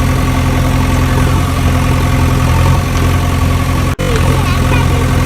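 Engine idling steadily with a low, even hum, briefly cutting out for a split second about four seconds in.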